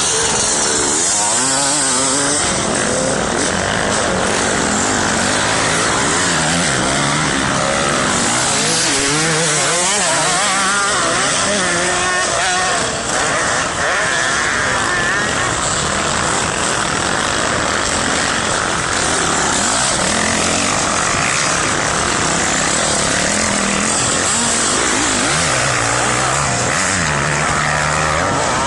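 Motocross dirt bike engines revving, their pitch rising and falling over and over with the throttle.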